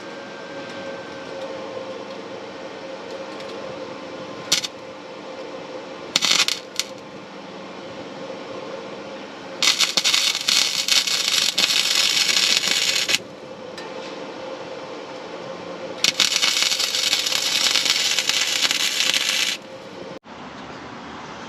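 Welding on exhaust pipes: two short crackling bursts like tack welds, then two longer welding passes of about three and a half seconds each, over a steady background hum.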